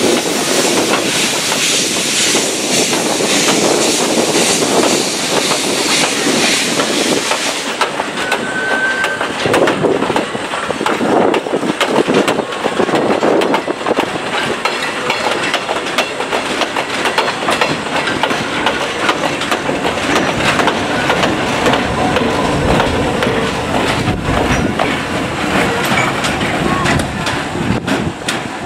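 Vintage passenger coaches of a steam-hauled train rolling past as it pulls out of the station, wheels clicking over the rail joints. A steady hiss of steam runs over the first seven or eight seconds, then stops.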